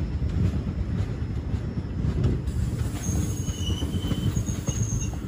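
Passenger express train running on the track: a heavy low rumble of coach wheels with scattered clicks, and short high-pitched wheel squeals starting about three seconds in.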